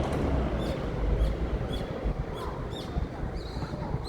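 Birds chirping: a quick series of short, high chirps, about two or three a second, over a low rumble. Near the end a thin, steady high note joins in.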